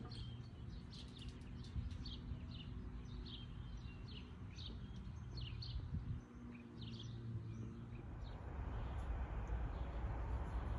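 Small birds chirping over and over in short high calls, over a low steady hum. The chirps die away about eight seconds in and a steady rushing outdoor noise takes over.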